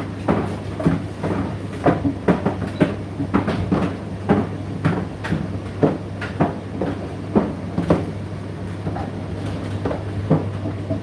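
Indesit IDC8T3 condenser tumble dryer running: a steady motor hum, with the load tumbling in the drum and knocking irregularly, about one to two knocks a second.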